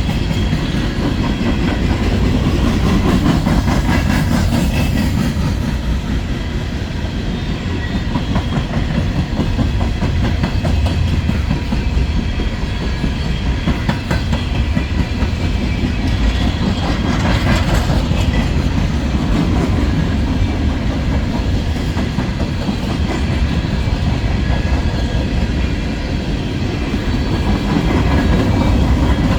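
Empty coal gondolas of a long freight train rolling past: a steady low rumble with the wheels clicking over the rail joints.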